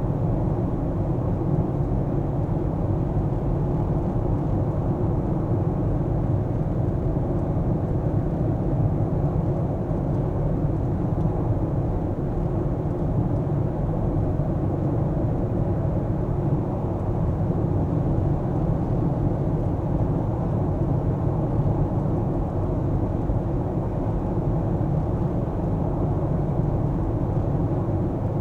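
Steady low rumble of a car driving, its road and engine noise unchanging throughout.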